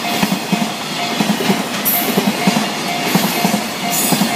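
Container freight train passing at speed, its wheels clattering and thumping over the rail joints. Over it a Japanese level-crossing warning bell rings with a steady repeating clang, about two strikes a second.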